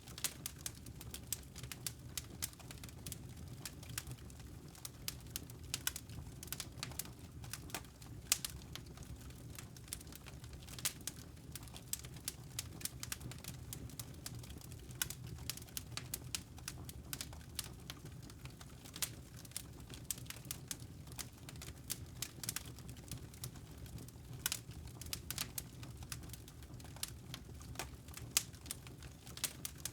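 Wood fire in a fireplace crackling and popping: many sharp, irregular pops over a steady low rumble of the flames.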